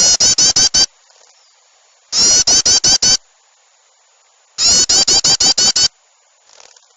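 Bird-lure recording of agitated bulbul and small-bird chatter: three loud bursts of about seven rapid, harsh notes each, every burst about a second long with a pause of a second or more between them.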